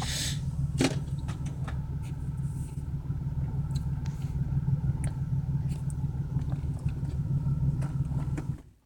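BMW 335i's turbocharged 3.0-litre straight-six idling with a steady low rumble while misfiring, with one cylinder, probably number 6, shut down by the engine computer. The engine stops abruptly near the end.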